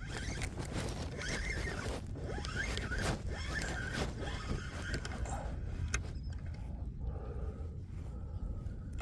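Fishing reel being cranked to reel in a small fish, a continuous ratcheting whir with many sharp clicks and short squeaks.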